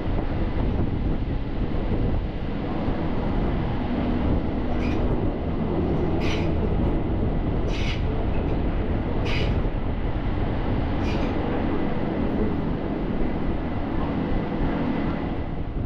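Train running along the track: a steady rumble, with five short bright bursts of noise about every second and a half in the middle.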